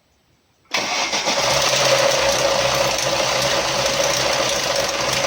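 Lada Niva 21213's 1.7-litre four-cylinder engine idling with a steady clatter from the timing chain, which comes in abruptly under a second in. The rattle is the sign of a broken timing chain damper letting the chain slap.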